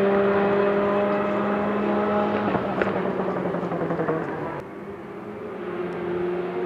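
Rally car engine running at high, steady revs, then fading away with a sharp click. After an abrupt cut, a fainter engine note rises in near the end.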